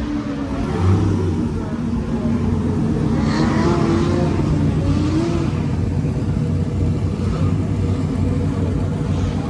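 Car engine running at a steady idle, revved up and back down a few seconds in.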